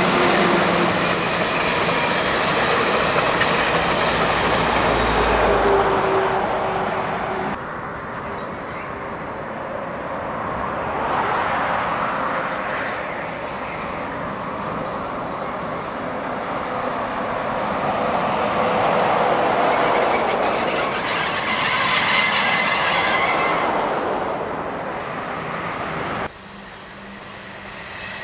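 Passenger trains running past on an electrified line, a steady loud rush of wheels on rail. After a cut comes the noise of rolling stock in a marshalling yard, swelling and fading twice, with faint thin tones like wheel squeal.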